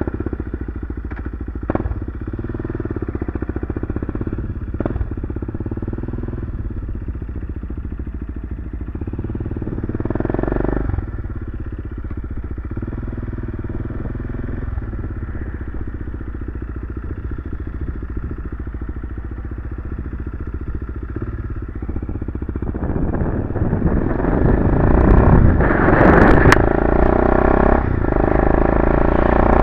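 BMW F650CS single-cylinder engine running through an aftermarket Barracuda RX-Max slip-on exhaust. It holds fairly steady, then grows louder over the last several seconds.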